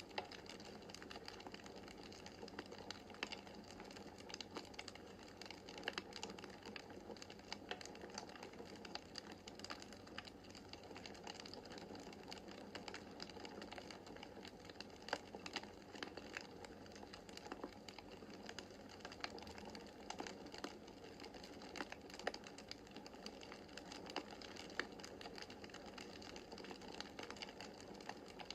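Wood fire crackling in a fireplace: a steady soft hiss of the flames with frequent, irregular sharp snaps and pops.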